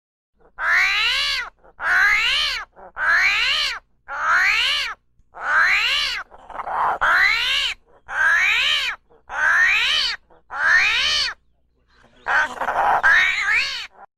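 An animal calling about ten times in an even series. Each call lasts just under a second, with a wavering pitch that rises and falls, and the last call, near the end, is longer and rougher.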